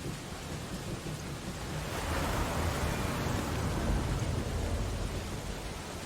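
Steady rain on window glass, with a deep rumbling swell that builds about two seconds in and fades near the end.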